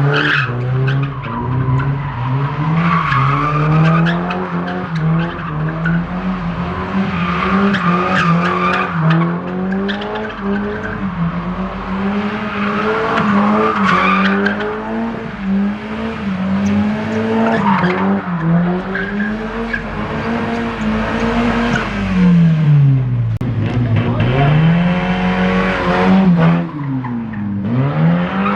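Modified car drifting: the engine is held at high revs that rise and fall as the throttle is worked, with the tyres screeching in patches. Near the end the revs drop away sharply and climb back twice.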